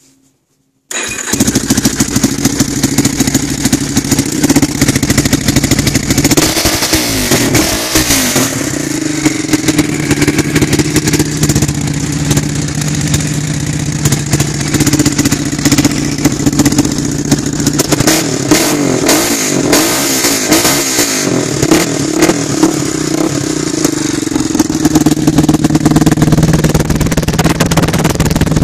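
Yamaha Warrior 350 ATV's four-stroke single-cylinder engine running loud through a custom exhaust, with blips of the throttle that raise and drop the pitch several times. The sound starts abruptly about a second in, and the recording is overloaded by the loudness.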